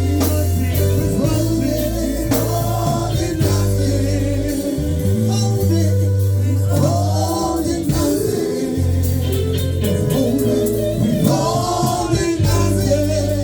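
Live gospel worship music: a band playing sustained chords with bass while voices sing long, held phrases.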